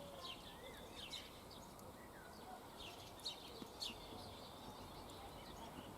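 Birds chirping faintly, short high calls scattered through, with two brief clicks a little past the middle.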